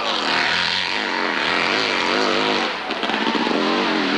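Hillclimb racing motorcycle engine revving hard, its pitch swinging up and down several times a second as the throttle is worked and the rear wheel hooks and spins. It drops away near the end.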